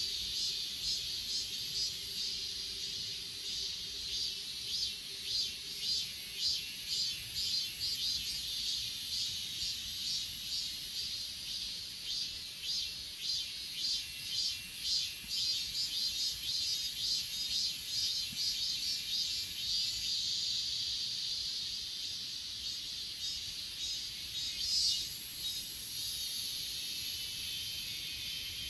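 Chorus of crickets and other grass insects chirping, a high-pitched, rapidly pulsing trill over a continuous high buzz, growing louder near the end.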